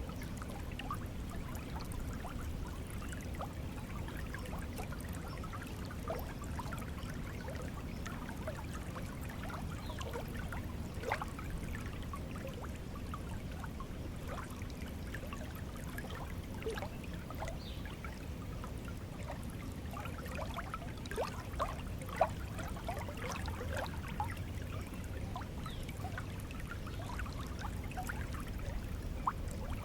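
Water flowing in a stream, a steady low rush with many small trickling and plinking drops over it.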